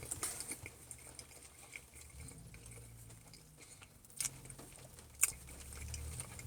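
Quiet chewing of pizza over light rain patter, with two sharp clicks about four and five seconds in.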